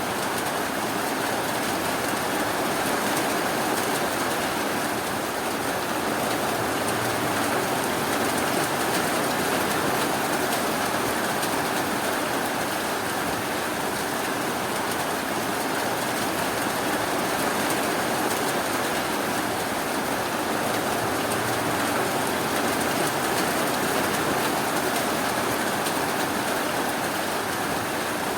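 Steady rain falling, a dense, even hiss with fine pattering and no thunder or separate drops standing out.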